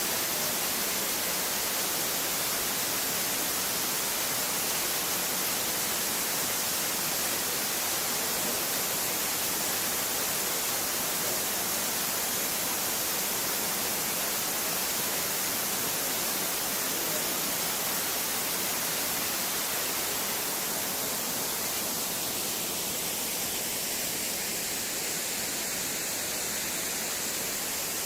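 Waterfall at Elephant Falls: a steady rushing hiss of falling water, strongest in the highs, easing slightly after about twenty seconds.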